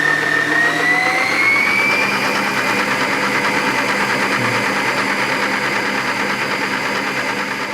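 Electric kitchen mixer motor running steadily with a high whine. The whine rises in pitch about a second in, then holds.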